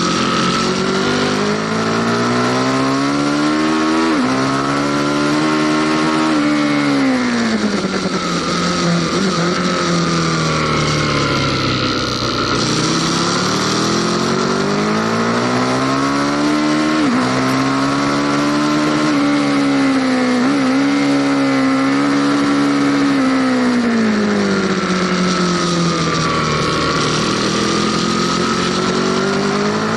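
Aprilia Tuono Factory motorcycle engine heard on board, revving hard and climbing through the gears, with quick drops in pitch at each upshift. It falls away twice under deceleration and picks up again each time.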